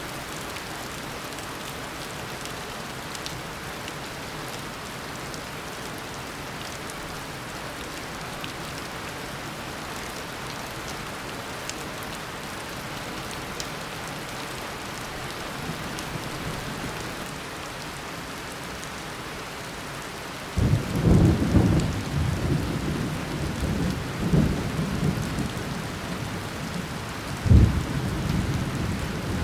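Steady downpour of tropical rain. About two-thirds of the way in, thunder breaks out suddenly and loudly and rolls on in waves, with another sharp crack near the end.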